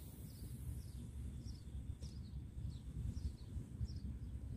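Small birds chirping: short, high, falling chirps repeated several times a second over a low outdoor rumble of wind and sea.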